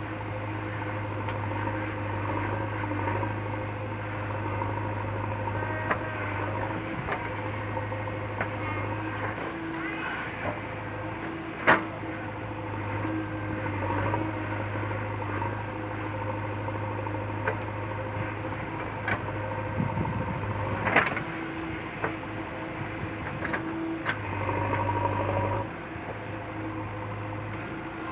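JCB 3DX backhoe loader's diesel engine running steadily, its note easing off and picking up again as it works, with a few sharp metallic knocks, the loudest about 12 and 21 seconds in.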